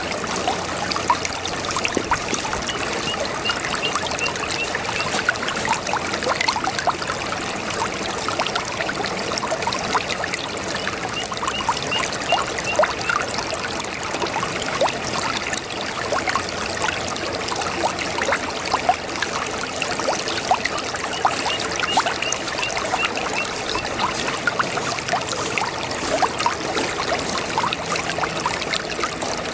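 A babbling brook: water running and trickling over stones, a steady rush full of small gurgles and splashes.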